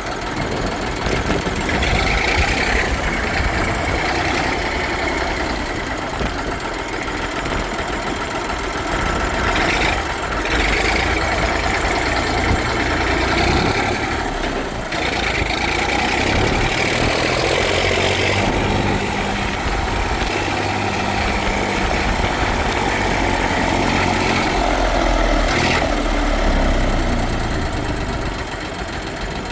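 Massey Ferguson FE 35 tractor's Perkins diesel engine running. Its note swells and eases off several times.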